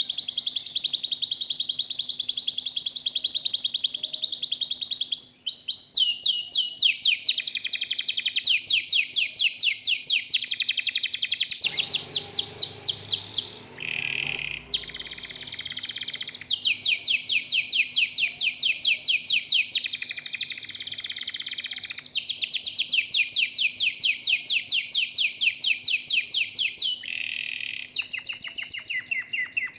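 Domestic canaries of the Indonesian 'kenari lokal' type singing: long, fast trills and rolls, high-pitched, switching to a new phrase every few seconds.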